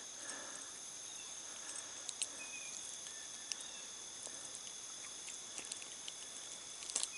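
Steady high-pitched chorus of insects, with a few faint scattered clicks and taps.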